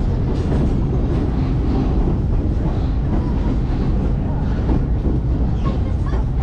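Skunk Train passenger car rolling along the track, heard from its open deck: a steady low rumble of wheels on rails.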